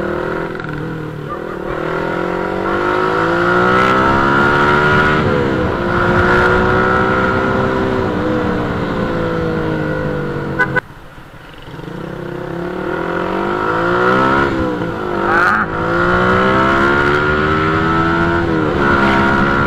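Motorcycle engine heard from the rider's helmet, pulling through the gears: its pitch climbs, dips at each upshift and climbs again. About halfway through, the throttle closes and the sound drops away suddenly, then builds back up as the bike accelerates again.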